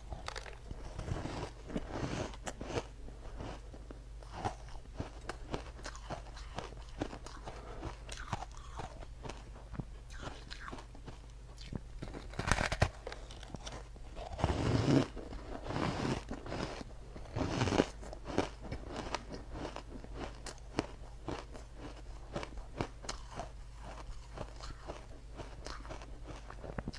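Close-miked person biting and crunching ice: many sharp crunches in an irregular run, with a few louder bites about halfway through.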